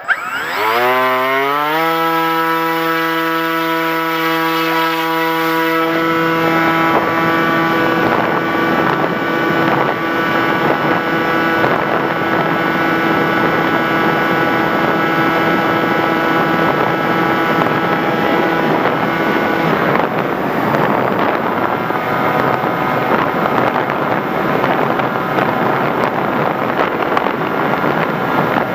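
The FPV Raptor model aircraft's motor and propeller spin up as the throttle is opened: a steady pitched whine that rises over the first two seconds and then holds. From about six seconds in, rushing wind noise builds over it, and the whine fades out around twenty seconds.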